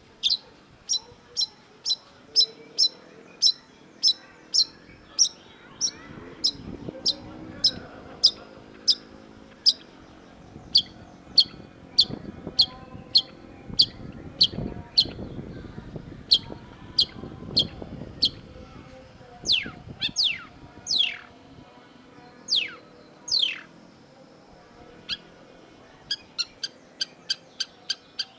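Long-tailed shrike singing: a long series of sharp, high, clipped notes at about two to three a second, broken about two-thirds through by several long downward-sweeping whistles, then a faster run of short notes near the end. A faint lower background murmur runs underneath through the middle.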